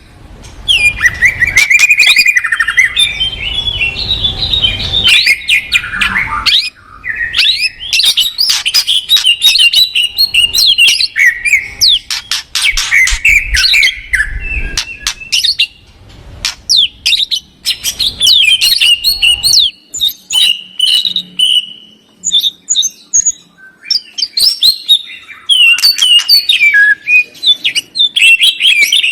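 A songbird singing a loud, varied song of rapid chirps, ticks and whistled phrases in bursts with short pauses.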